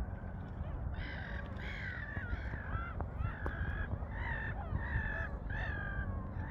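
A bird calling repeatedly in harsh, crow-like calls, about seven in a row starting about a second in, each short with a bending, falling pitch, over a low rumble.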